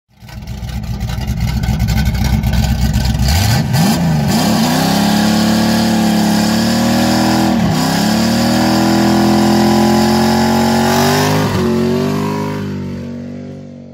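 Car engine revving and held at high revs in a burnout, with the rear tyre spinning and smoking. The revs climb about three and a half seconds in, dip briefly twice, then fall away near the end.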